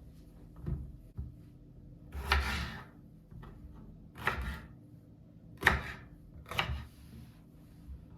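Five short handling noises in a row, spaced about a second apart, the kind made by moving things about in a kitchen.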